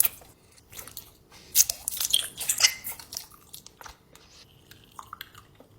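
Close-miked mouth sounds of biting into and chewing a giant cinnamon gummy bear: short wet clicks and smacks in bursts, busiest about two to three seconds in and sparser toward the end.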